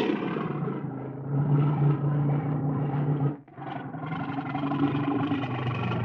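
A large animal's low-pitched, drawn-out call, in two long stretches with a brief break about three and a half seconds in.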